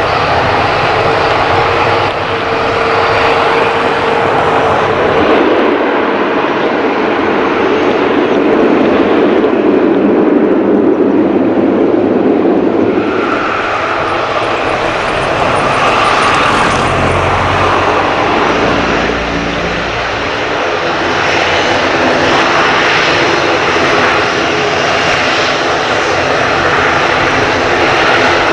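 Loud, continuous aircraft engine noise at close range: a UNI Air ATR 72-600 turboprop, then the jet engines of an ANA Boeing 787-9 Dreamliner taking over about halfway through.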